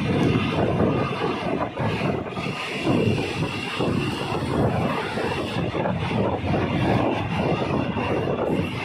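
Passenger train running along the track, heard from on board: a steady running noise from the carriage.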